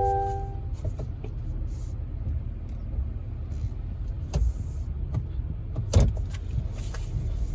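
Steady low rumble of a motor vehicle, with a brief chime of a few clear notes at the start and two sharp knocks, the louder one about six seconds in.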